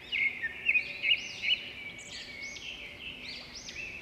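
Several small birds chirping, many short rising-and-falling chirps overlapping one another, loudest in the first second and a half.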